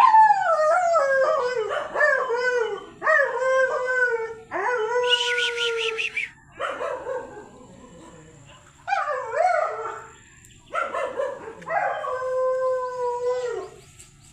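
A dog howling in a string of long, wavering calls, about eight in all, with short pauses between them and one higher, buzzier yelp near the middle.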